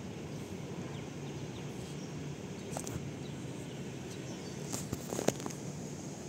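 Railway platform ambience: a steady low rumble and hum, with a few faint clicks and a sharper cluster of clicks about five seconds in.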